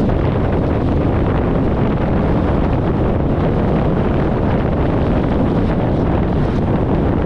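Steady wind rushing over the microphone of a camera mounted outside a 1994 VW Gol driving at highway speed, with road noise from the car underneath.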